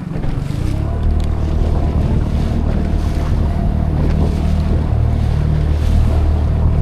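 Brand-new Tohatsu outboard motor running steadily under way at cruising speed, a low drone that gets slightly louder just under a second in, with water and wind noise around it.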